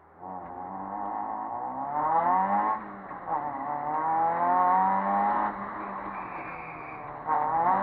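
Citroën Saxo VTS rally car's four-cylinder engine accelerating hard: its pitch rises, drops at an upshift about three seconds in, and climbs again. It then settles to a lower, steadier note for a couple of seconds before pulling hard again near the end.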